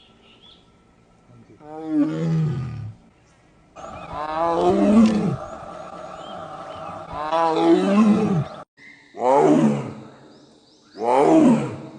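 A big cat roaring: five separate calls, each about a second long and falling in pitch.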